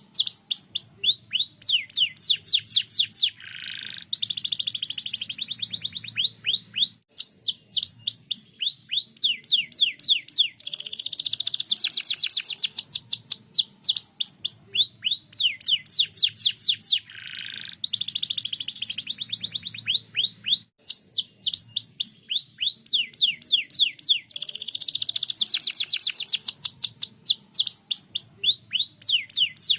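Domestic canary singing a long, continuous song of rapid, high, falling whistled notes and trills, with a few brief breaks between phrases.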